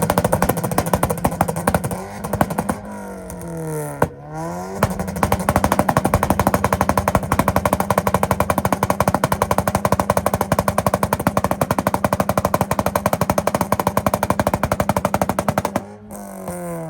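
Honda Civic engine held on a two-step rev limiter: rapid, steady popping and crackling at high revs. About two seconds in the revs drop and climb back on, with a sharp crack near four seconds, and near the end the revs fall away.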